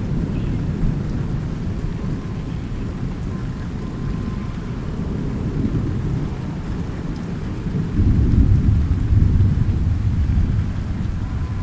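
Thunderstorm: steady rain with a low rolling rumble of thunder, which swells louder about eight seconds in and then slowly fades.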